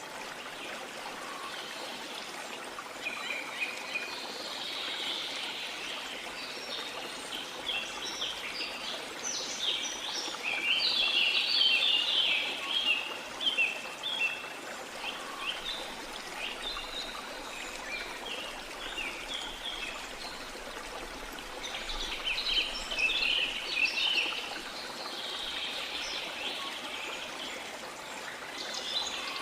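Steady rush of a waterfall with tropical forest birds chirping and trilling over it, the birdsong busiest about ten to thirteen seconds in and again around twenty-two seconds in.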